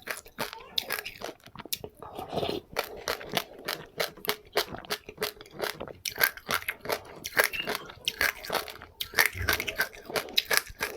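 Close-up chewing of seeds eaten with passionfruit: rapid, irregular crunches and crackles, several a second.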